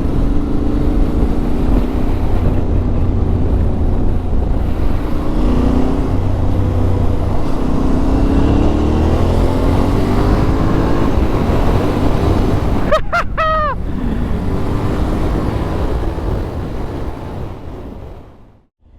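Yamaha Ténéré 700's parallel-twin engine running as the bike is ridden, its pitch slowly rising and falling with the throttle over a heavy low rumble. About thirteen seconds in, a brief higher sound with wavering pitch cuts through, and the sound fades out near the end.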